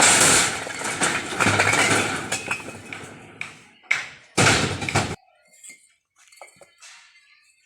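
A load crashing and sliding off a tipping tractor trailer: a loud rush that fades over about three seconds, then two shorter crashes about four seconds in, followed by faint settling sounds.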